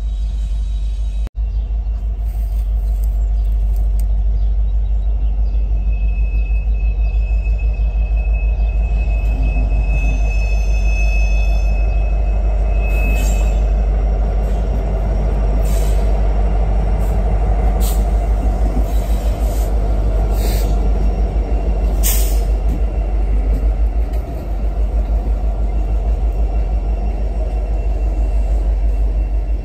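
A train passing close by, its rumble heavy and steady. A high, steady wheel squeal runs from about six to thirteen seconds in, and several sharp clanks follow.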